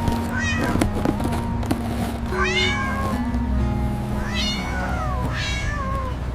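A cat meowing about four times, each call rising then falling in pitch, over background music with long held notes.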